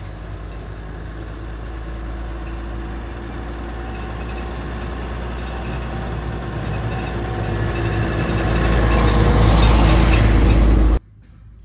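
An engine running steadily, growing louder over about ten seconds, then cutting off suddenly.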